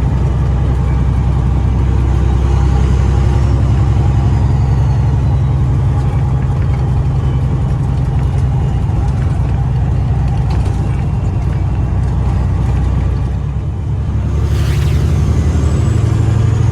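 Semi truck's diesel engine running steadily as the truck pulls up. About fourteen seconds in there is a short hiss of air, and soon after the engine note changes.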